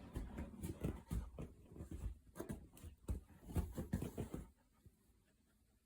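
Irregular soft knocks, taps and rustles of close handling, which stop abruptly about four and a half seconds in, leaving near silence.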